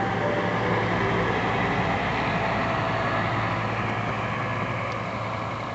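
Diesel engine of a single-deck bus running steadily with a low hum, getting gradually quieter over the last few seconds.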